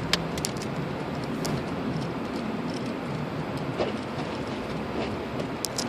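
Steady cabin noise of a car driving slowly through snow: the hiss of the heater fan on full blast mixed with tyre and road noise, with a few sharp clicks near the start and again near the end.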